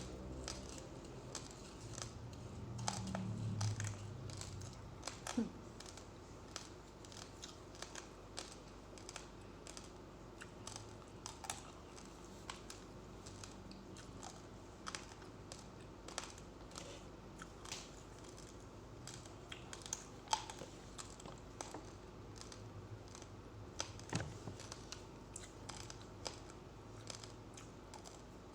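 Close-up chewing of raw uncooked rice grains: a steady run of sharp, irregular crunching clicks, several a second.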